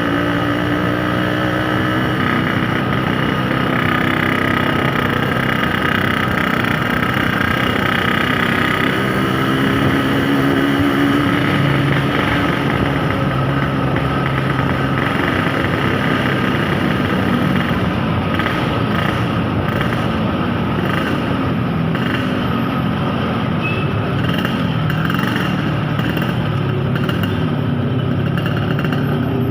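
Yamaha RX-King's two-stroke single-cylinder engine running while the motorcycle is ridden, its pitch rising and falling with the throttle.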